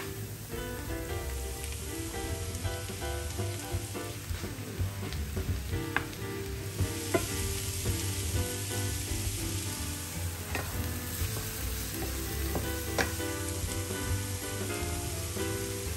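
Onions and sliced mushrooms sizzling in oil in a non-stick frying pan while a wooden spoon stirs them, with a few sharp knocks of the spoon. The sizzle grows louder about halfway through.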